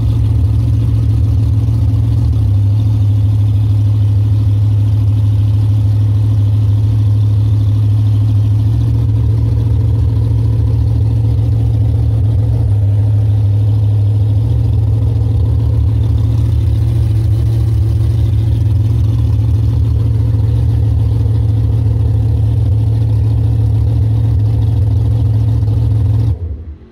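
Supercharged methanol-burning V8 of a 1968 Camaro drag car running at low revs, heard from inside the cabin: a loud, steady, deep engine note with a few small steps in pitch. It stops abruptly near the end.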